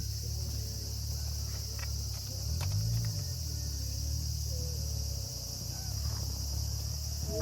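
A steady chorus of insects chirping, with a low rumble underneath that swells briefly about three seconds in.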